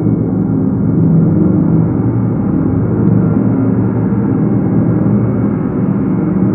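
Gongs played as a continuous wash: a dense, steady drone of many overlapping low tones, with no separate strikes standing out.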